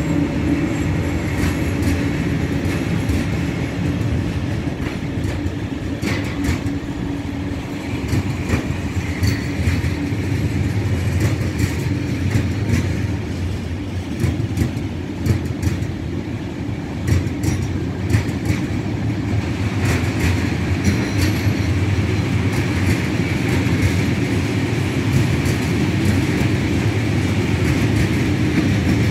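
A long train of open coal wagons rolling past at low speed, the wheels rumbling steadily on the rails with scattered sharp clicks.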